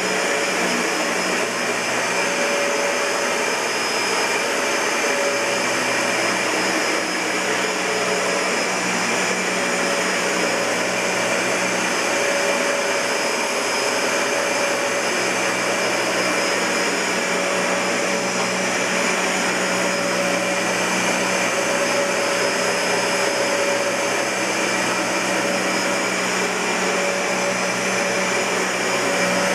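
Dyson Ball Multi-Floor (UP13) bagless upright vacuum cleaner running steadily: an even rush of air with a steady high motor whine, unchanging throughout.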